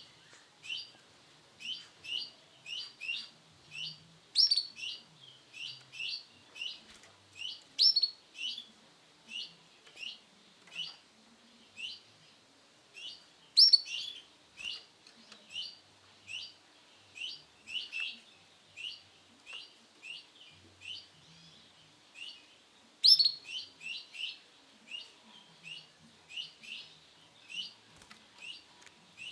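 Male canary chirping: short, high call notes repeated about twice a second, with a few louder, sharper notes now and then.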